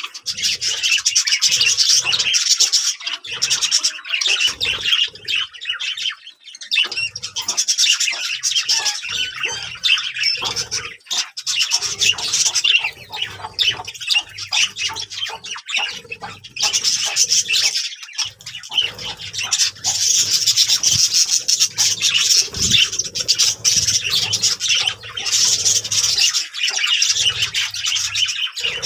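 A flock of budgerigars chattering continuously, many birds calling over one another.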